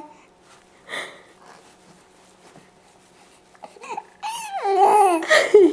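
Baby babbling: a short vocal sound about a second in, then after a pause a longer run of loud, high-pitched cooing and squealing sounds that slide up and down in pitch over the last two seconds.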